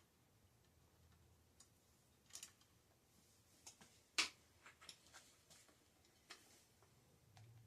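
Faint, scattered clicks and light taps of small hard objects being handled, with one sharper click about four seconds in.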